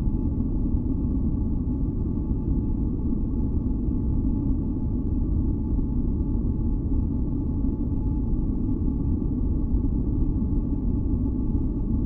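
Steady, deep rumbling noise, weighted to the low end like brown noise, with a few faint steady high tones held above it. It does not change.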